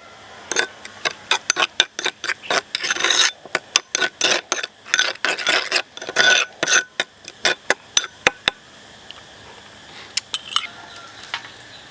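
Cutlery clicking and scraping against a plate as food is picked apart, many quick sharp clicks for about eight seconds, then only a few scattered ones near the end.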